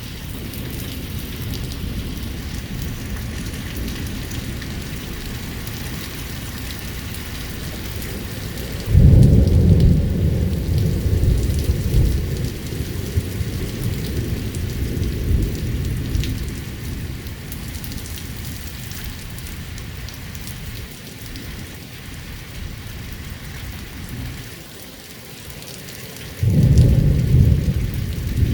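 Rain falling steadily through a thunderstorm, with two sudden loud claps of thunder that rumble on for several seconds: one about a third of the way in, another near the end.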